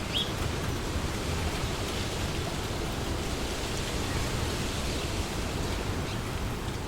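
Wind blowing through trees, a steady rushing hiss, with a single short high bird chirp just after the start.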